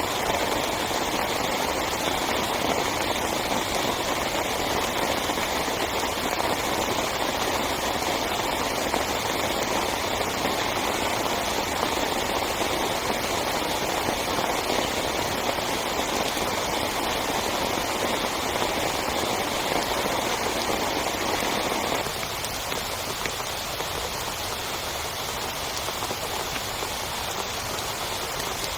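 Heavy rain falling in a steady, dense hiss. About 22 s in, the sound drops suddenly to a quieter, thinner rain.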